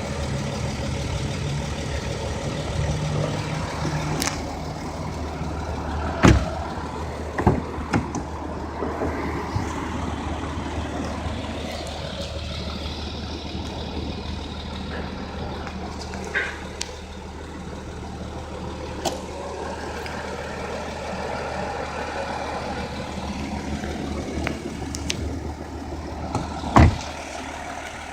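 Audi 3.0 TDI V6 diesel engine idling steadily, with a few sharp knocks or clicks over it, the loudest about six seconds in and again near the end.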